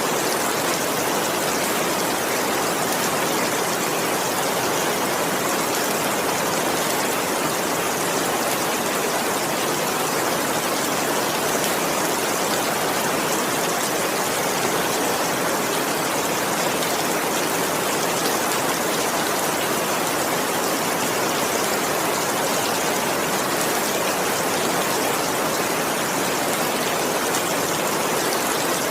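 Heavy rain falling steadily: a dense, even hiss with no thunder claps or other sudden sounds.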